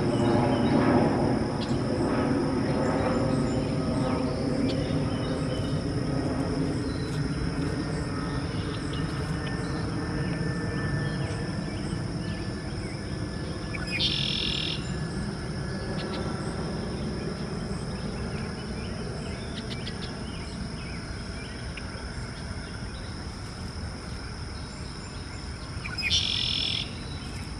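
Small bird chirps and peeps, with two short louder high calls about halfway through and near the end. Under them runs a low drone that is loudest at the start and fades over the first several seconds.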